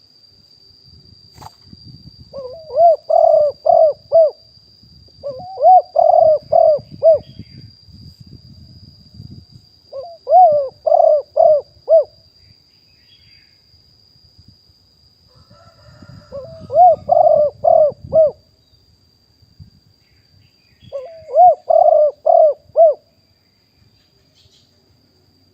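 Spotted dove cooing: five phrases, each a quick run of four or five mellow coo notes, with a few seconds' pause between phrases.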